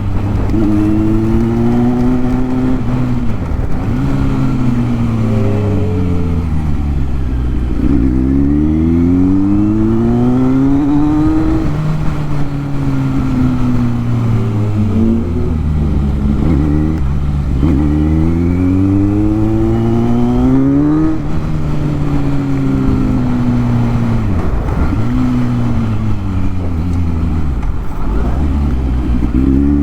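Motorcycle engine running under way, its pitch climbing and falling again and again as the bike speeds up and slows down.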